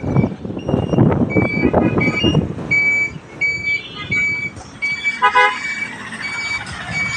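Highway traffic heard from a moving motorbike: loud road and wind noise that eases after the first couple of seconds, under a steady train of short high beeps, a little under two a second. A vehicle horn sounds once, about five seconds in.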